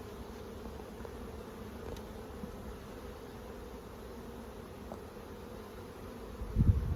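Honeybees humming steadily around an open hive. A burst of low thumps near the end is the loudest sound.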